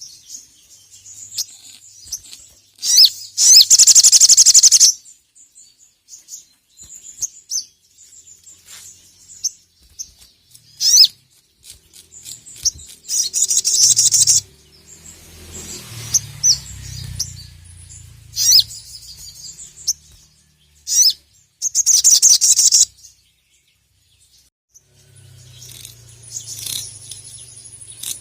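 Brown-throated sunbird (sogok ontong) singing: loud bursts of rapid, high-pitched chattering trills, each a second or two long, with shorter chirps in the pauses between them.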